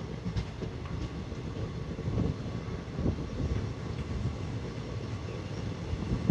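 Express passenger train running along the track, heard from one of its coaches: a steady low rumble with irregular thumps.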